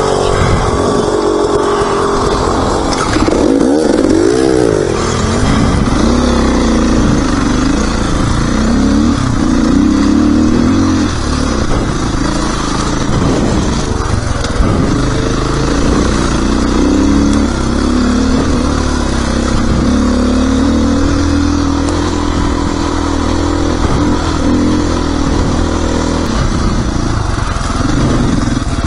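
Dirt bike engine being ridden, its pitch rising and falling continually as the rider works the throttle and gears.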